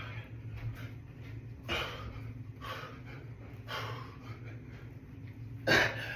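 A man breathing hard with effort in short, forceful exhales, about one a second, during a set of push-ups. A steady low hum runs underneath.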